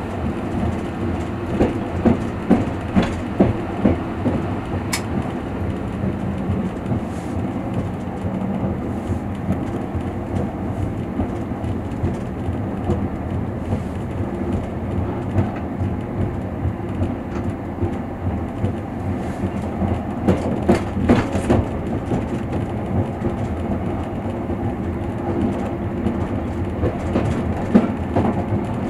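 Wheels of a moving passenger train knocking over rail joints, heard from inside the carriage: a steady rumble with groups of rhythmic clacks about two a second, near the start, around two-thirds of the way through and again near the end.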